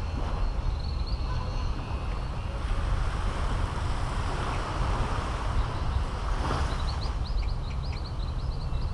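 Caribbean Sea surf washing steadily onto a beach, with wind rumbling on the microphone. Near the end a bird gives a quick run of about a dozen short, high chirps.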